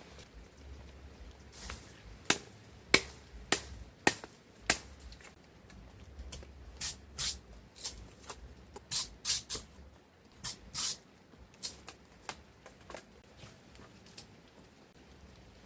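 Irregular sharp knocks and clicks mixed with short scraping strokes, about a dozen spread unevenly, like hand work with sticks or tools.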